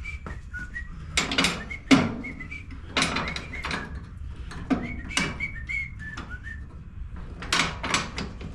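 Metal clicks and clanks of pliers and mower parts being handled, with short, high whistle-like chirps sounding throughout.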